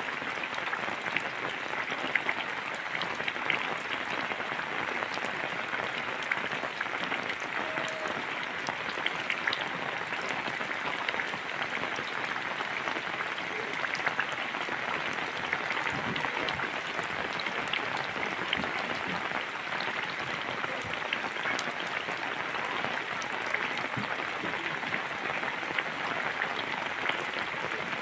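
Steady rain falling, a dense even patter of many small drop ticks that neither builds nor eases.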